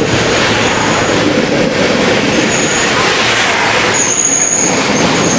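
Metro-North commuter train cars passing close by, slowing for a station stop: a steady loud rolling rush with an intermittent high-pitched squeal from wheels and brakes, loudest about four seconds in.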